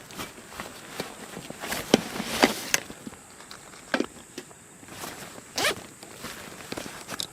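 Irregular rustling, scuffing and clicking of someone moving about and handling things, with a few louder scrapes about two, four and five and a half seconds in.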